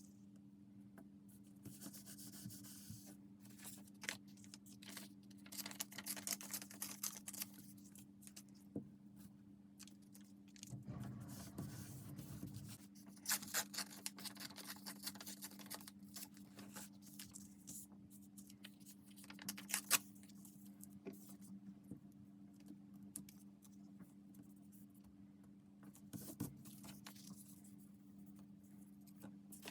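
Paper and craft materials being handled: irregular rustling, scraping and light taps as pages and cut pieces are moved and pressed down, over a steady low electrical hum.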